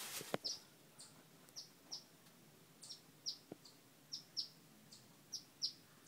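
Faint, short bird chirps, about a dozen, each a quick downward sweep in pitch, repeated irregularly about two a second: a parent bird scolding a person close to its nest.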